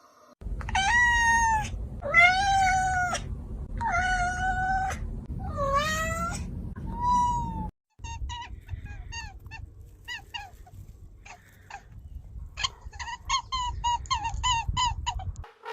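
Cat meowing: five long, drawn-out meows, then after a brief break a quick run of short mews.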